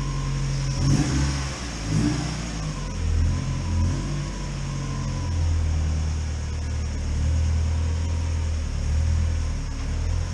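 Mazda Miata's freshly swapped 1.8-litre BP four-cylinder engine running, with two brief louder bursts about one and two seconds in, then settling into a lower, steady idle.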